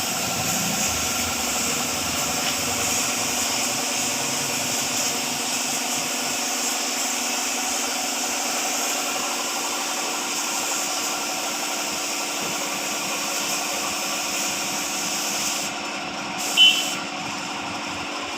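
An engine running steadily at idle, a constant hum. Near the end it drops slightly in level, and one short, sharp sound with a brief high tone cuts in.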